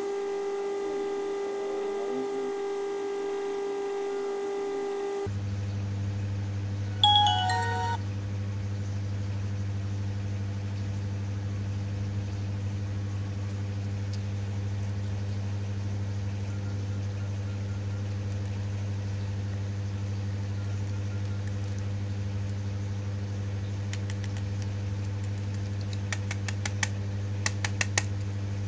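Steady low electrical hum, with a short chiming tone about seven seconds in and a run of light clicks near the end.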